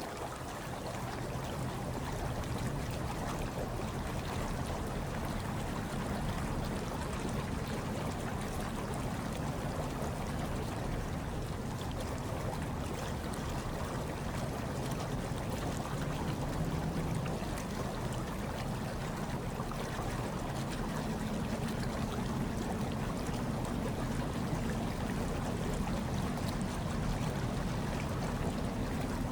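Hot tub water bubbling and churning steadily, a continuous low watery rush.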